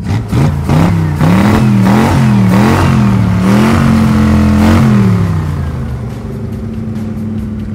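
Truck engine sound effect revving up and down several times, then settling to a steady, slightly quieter run about five seconds in.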